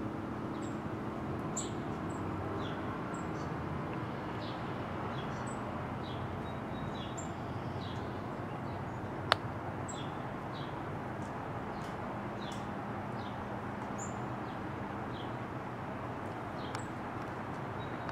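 Small birds chirping: many short, high chirps scattered over a steady background hum, with one sharp click about nine seconds in.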